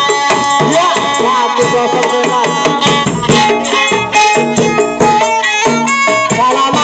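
Loud traditional folk music, with held melodic notes over drums and rattling percussion that strike many times.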